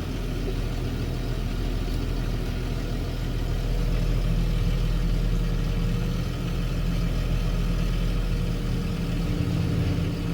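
Engine of a fork-equipped loader running steadily while it moves a load, with a slight rise in level a few seconds in.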